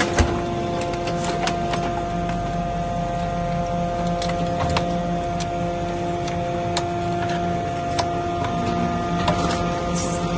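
Hydraulic metal baler running: a steady multi-tone hum from its hydraulic pump, with scattered sharp clicks and knocks of aluminium extrusion scrap being pressed.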